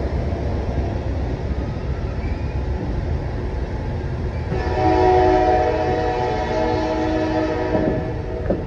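Amtrak Carolinian passenger cars rolling out of the station with a steady low rumble. About halfway through, the locomotive's horn sounds one long chord for about three and a half seconds.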